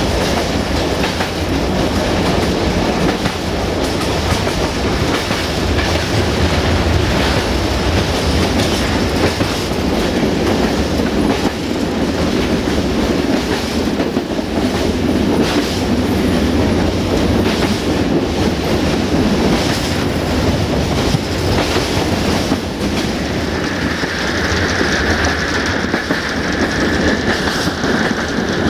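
Freight train behind an LDH diesel-hydraulic locomotive running on jointed track, heard on board: a steady rumble with the clickety-clack of wheels over rail joints. From about two-thirds of the way in, a high steady squeal of wheels on a curve joins it.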